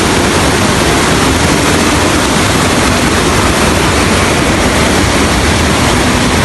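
Loud, steady rush of a fast-flowing river, an even wash of water noise.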